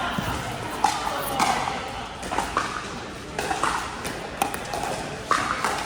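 Pickleball paddles striking a hard plastic pickleball during rallies: sharp, hollow pops about once a second, in a large indoor hall.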